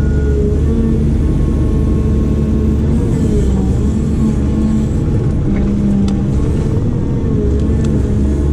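Diesel engine of a heavy digging machine running hard, its pitch rising and falling as the hydraulics take load. There are a few sharp knocks in the second half.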